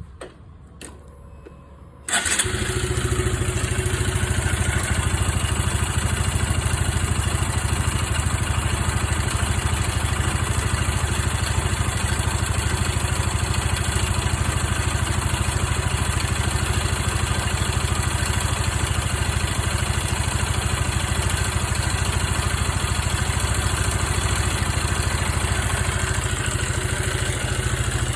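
A 1990s Yamaha Serow's single-cylinder four-stroke engine starts about two seconds in, then runs steadily at idle. It makes a noise that the owner suspects is a sign of a fault needing repair.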